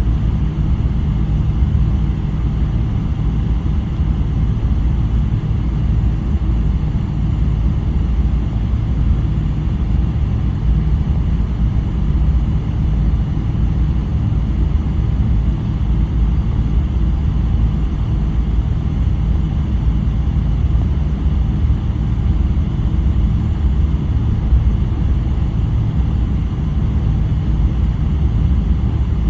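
Steady low rumble of a Boeing 777-300's Rolls-Royce Trent 800 engines, heard inside the passenger cabin.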